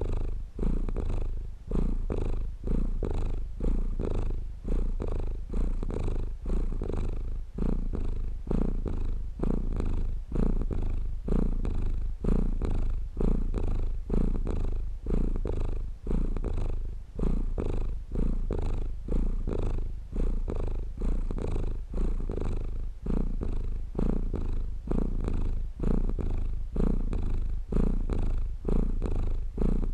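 Domestic cat purring continuously, a low rumble that swells and dips in an even rhythm as it breathes in and out.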